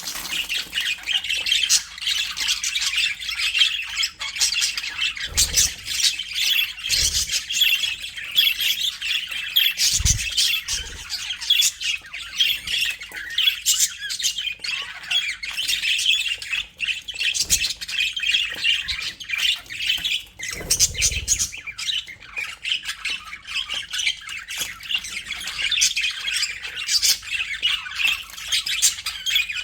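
A flock of budgerigars chattering and squawking all at once, a dense stream of short chirps and warbles, with a few dull low thumps now and then.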